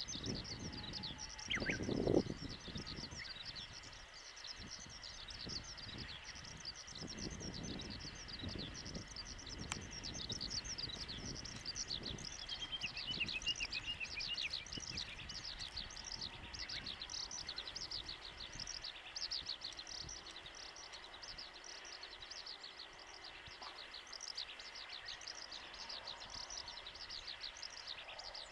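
Birds singing continuously in quick, high, rapid chirps, over a gusty low rumble of wind on the microphone, strongest about two seconds in. No aircraft engine stands out.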